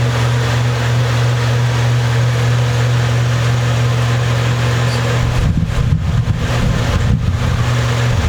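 Steady low hum with hiss. From about five seconds in, irregular low rumbling knocks, like handling noise, are added.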